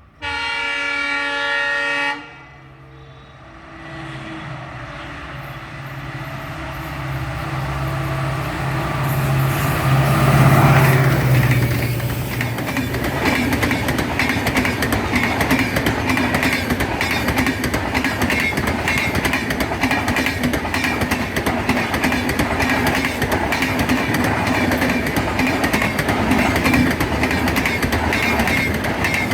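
A diesel locomotive's horn sounds for about two seconds. The locomotive's engine rumble then grows and peaks about ten seconds in as it passes, followed by a steady run of wagons rolling by with clickety-clack from the rail joints.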